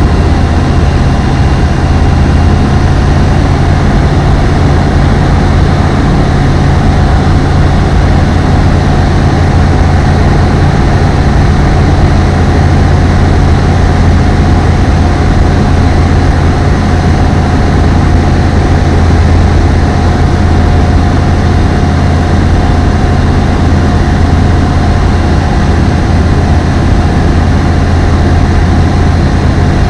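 Loud, steady drone of an Apollo Fox ultralight aeroplane's engine and propeller holding constant power in flight.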